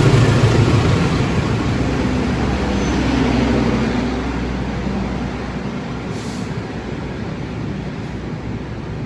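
A train running through the station without stopping, its heavy rumble loudest at first and easing off over several seconds as it moves away.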